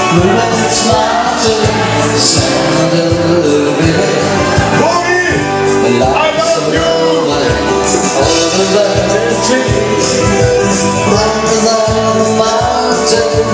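Band music with a steady drum beat.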